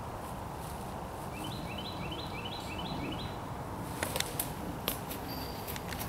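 A bird calling a quick series of about six short, high chirps, each rising then levelling off, over steady outdoor background noise. About four seconds in come a few sharp clicks.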